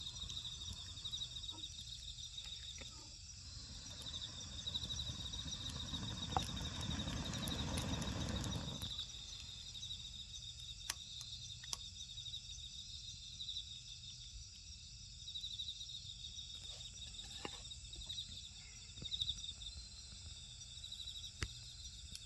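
Insects chirping in a steady pulsing trill, with scattered sharp crackles and pops from a wood fire. About three seconds in, a rushing noise swells for about six seconds, then drops away.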